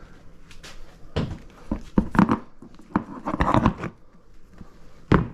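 Metal transmission parts and tools knocking and clanking as they are handled on a workbench: a series of irregular knocks, with a busier clatter about three and a half seconds in.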